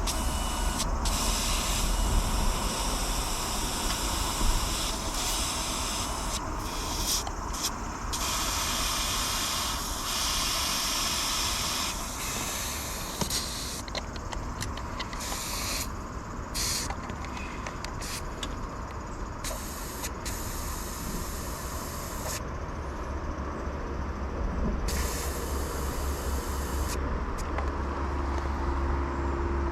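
Yamaha WR250 single-cylinder dirt bike being ridden, its engine running low under a loud rushing hiss of wind and tyre noise that comes and goes every second or two.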